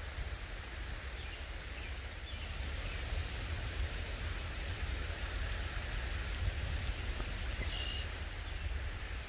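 Steady rain falling, an even hiss of drops, with a low rumble underneath and a few faint high chirps.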